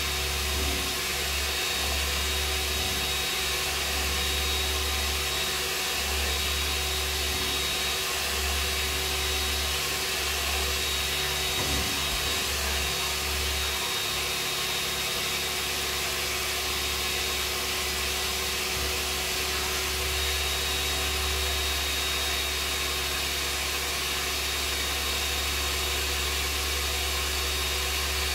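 Steady whooshing noise with a low hum underneath, even throughout, like a running blower motor.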